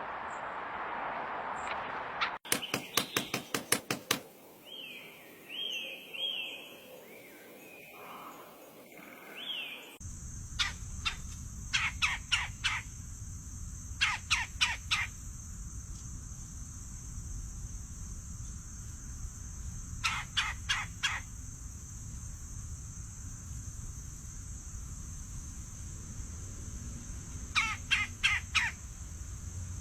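Birds calling: short bursts of quick repeated calls every few seconds, with some rising and falling chirps, over a steady high-pitched drone in the later part.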